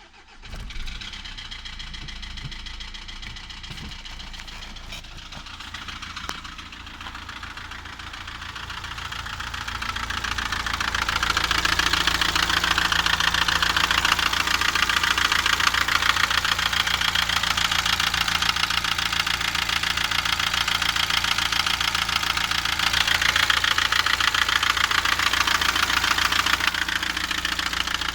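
Renault Laguna 2.0 dCi diesel engine starting and then running with a fast, even knock, recorded as a sign of an engine fault. It gets much louder about ten seconds in and stays that way.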